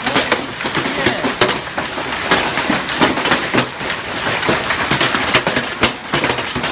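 Large hailstones pelting down on hard surfaces: a loud, dense, irregular clatter of impacts.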